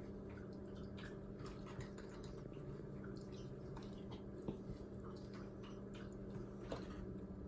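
Faint scattered clicks and squishes of spoons scooping and pressing wet baking-soda paste into silicone molds, over a steady low hum.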